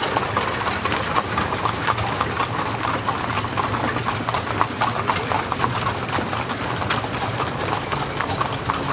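Many horses' hooves clip-clopping on the road as a horse-drawn wagon train passes, a dense, steady clatter of overlapping hoofbeats.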